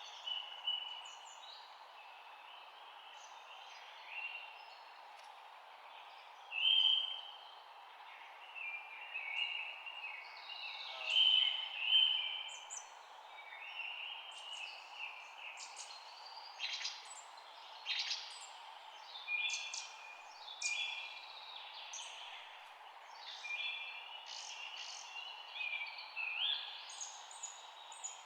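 Several songbirds chirping and trilling in short, overlapping phrases over a faint steady background hiss, the chirping growing busier after about the tenth second.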